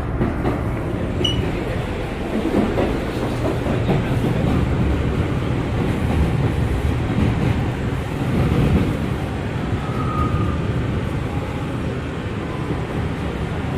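Steady rumble inside a Bombardier R179 subway car, with a brief faint high tone about a second in and another near ten seconds in.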